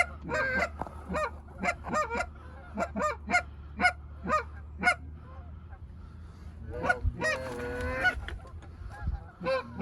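Canada geese honking: a run of short honks, about two a second, for the first five seconds, a brief lull, then a burst of overlapping honks from several birds around seven seconds in. A steady low hum runs underneath.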